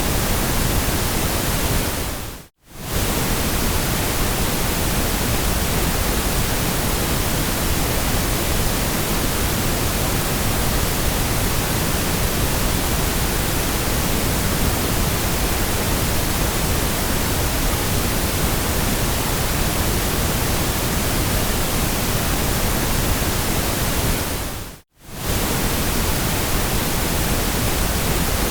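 Steady white noise, an even hiss across the whole range with no tones or rhythm. It fades briefly to silence and straight back twice, about two seconds in and again near the end.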